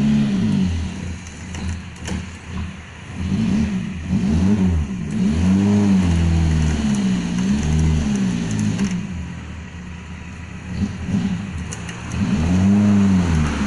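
A Suzuki Jimny 4x4's small petrol engine revs hard at full throttle while climbing a steep muddy slope, its pitch rising and falling over and over. The engine eases off for a few seconds about two thirds through, then revs up again.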